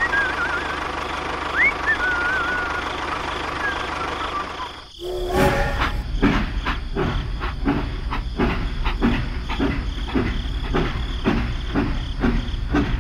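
A vehicle engine running steadily with a few short, high warbling chirps over it. After a short break about five seconds in, a train rolls along with a regular clickety-clack of wheels over rail joints, a little over two clacks a second.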